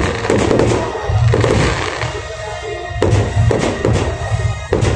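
Aerial firework shells bursting, with a series of sharp bangs and crackling from the stars, over loud music with a steady low beat.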